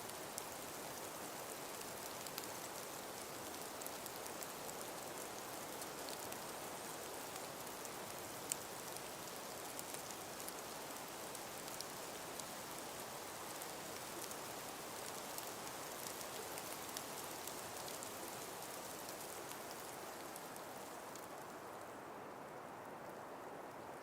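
Steady hiss of a calm breeze through a frost- and ice-covered forest, with scattered light ticks and one sharper tick about a third of the way in; the ticking thins out near the end.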